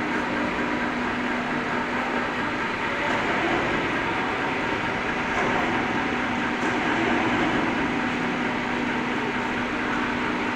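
Copper melting furnace running: a steady, even drone with a constant low hum.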